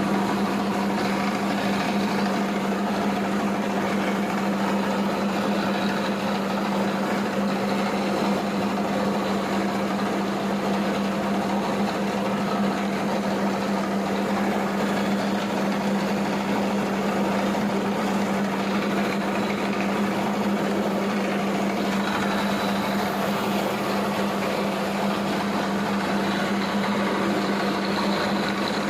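Small electric motor of a miniature DIY model machine running steadily at constant speed, with an even hum and a whirring rattle.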